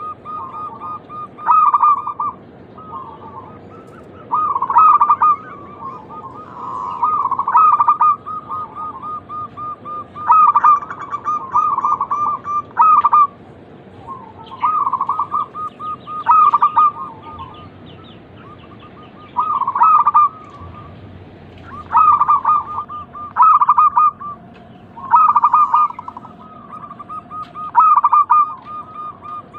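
Zebra doves (perkutut) singing: repeated phrases of fast staccato cooing notes, a loud phrase every two to three seconds over quieter continuous calling, with a second lower-pitched bird joining in about two-thirds of the way through.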